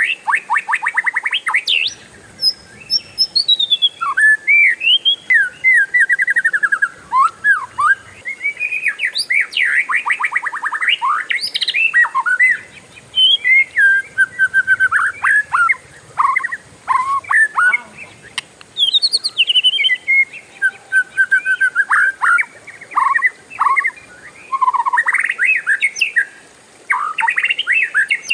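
Oriental magpie-robin (kacer) singing a long, varied song of rapid rattling trills, whistled rising and falling notes and slurred phrases, broken by only a few short pauses.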